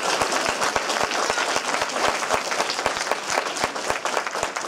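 Audience applauding, with a steady, dense clapping.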